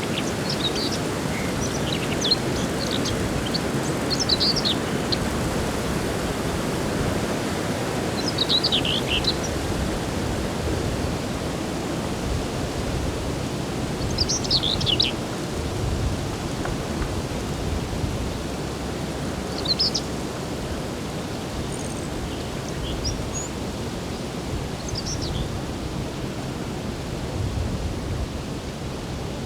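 Songbirds calling in short, high chirping phrases every few seconds, over a steady rushing background noise, with a couple of brief low rumbles.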